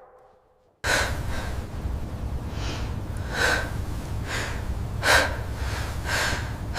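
Loud, breathy huffs or snorts, about six, roughly one a second, over a steady low rumble that starts abruptly about a second in.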